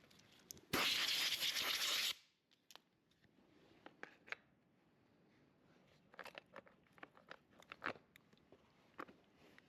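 A burst of hissing about a second and a half long, cut off sharply, then scattered light clicks and knocks of tools and parts being handled on the chainsaw.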